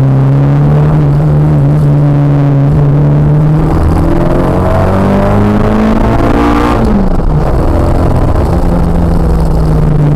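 Ford Escort Mk2 engine pulling under way, then revving up with a rising pitch for about three seconds. About seven seconds in the pitch drops sharply as it changes up a gear, then it settles to a steady run again.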